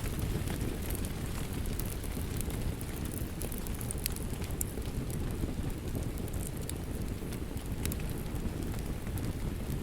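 Steady rain with a wood fire crackling, its sharp pops coming every so often over a low, even rush.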